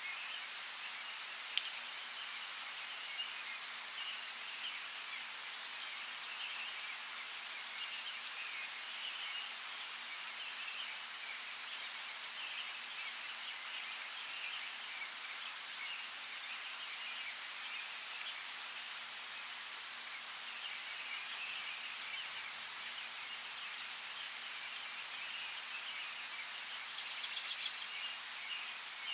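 Steady patter of rain, with a few louder single drips. Small birds chirp faintly throughout, and near the end one gives a quick run of high, rapid chirps lasting about a second.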